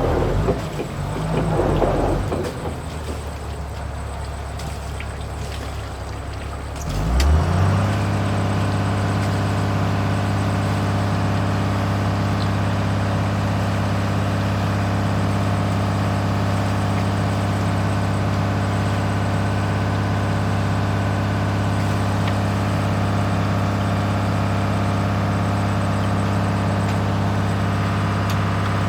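Diesel engine of a backhoe loader, mixed and uneven sound at first, then about seven seconds in it rises briefly in pitch and settles into a steady, even running note.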